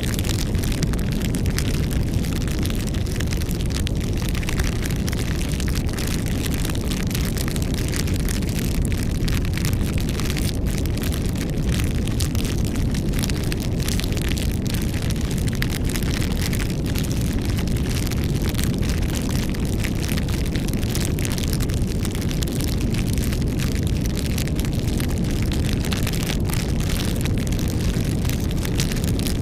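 Campfire burning: a steady low rush of flames with frequent small crackles and pops.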